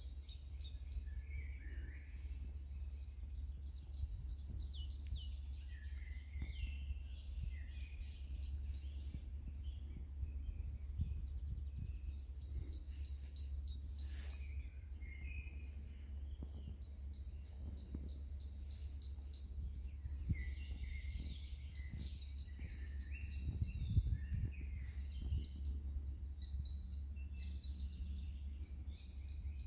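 Songbirds singing. One bird repeats a fast, high trill in bouts of a few seconds, again and again, with other chirps around it, over a steady low rumble.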